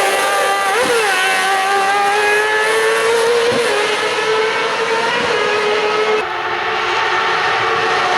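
Race car engine held at high revs, its pitch dipping briefly about a second in and then climbing slowly. About six seconds in the sound changes abruptly and dips in level, and the engine keeps running at high revs.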